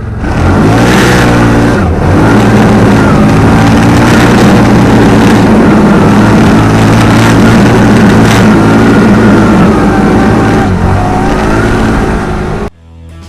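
Dump truck's diesel engine under load, loud and steady, its pitch dipping and climbing back about a second in and again near the end. It cuts off suddenly just before the end.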